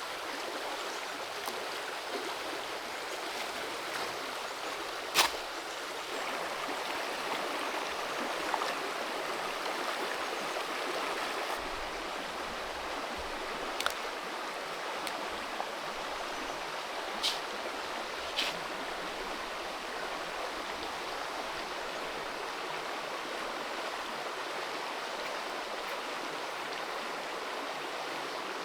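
Small forest creek flowing steadily over its bed, with a few short sharp clicks along the way, the loudest about five seconds in.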